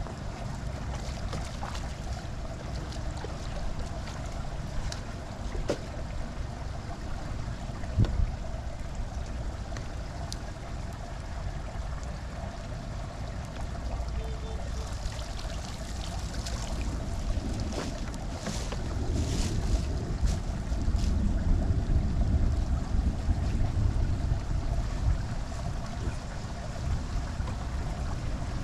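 Floodwater rushing into a storm drain, a steady noisy rush that grows louder in the second half, with wind buffeting the microphone. A single sharp knock about eight seconds in.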